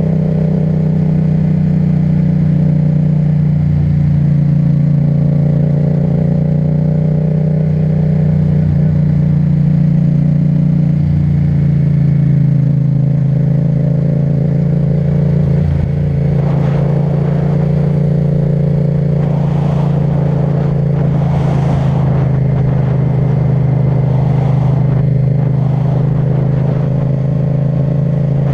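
Yamaha MT-07's parallel-twin engine breathing through an Akrapovic titanium exhaust, running at steady revs while riding. A few short bursts of hiss come in the second half.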